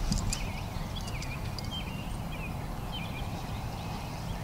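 Songbirds singing short, repeated warbling phrases, over a steady low rumble.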